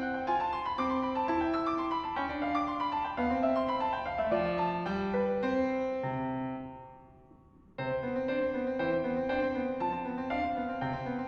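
Background solo piano music. It fades away about two-thirds of the way through and starts up again about a second later.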